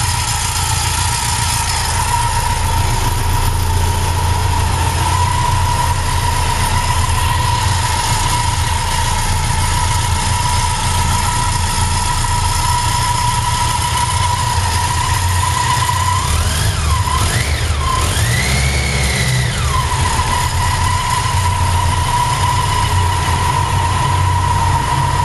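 BMW K100 motorcycle's four-cylinder engine idling with a rattle, revved briefly twice about two-thirds of the way through, then settling back to idle.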